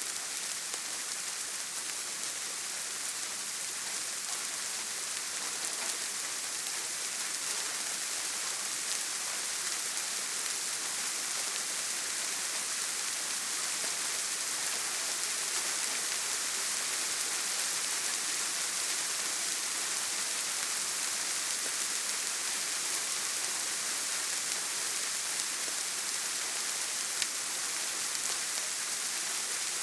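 Steady heavy rain falling on a tin roof, an even hiss, with one sharp tick near the end.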